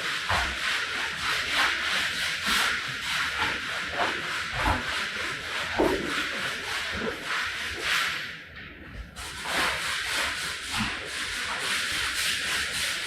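Rapid, repeated scraping strokes across a mud-caked rug, with a brief pause about eight and a half seconds in.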